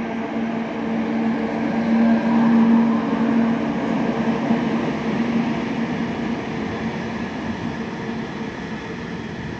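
Freight train of open coal wagons hauled by a PKP Cargo ET41 electric locomotive passing through a station without stopping: a steady electric hum over the rumble of the wagons' wheels, loudest about two to three seconds in and fading toward the end.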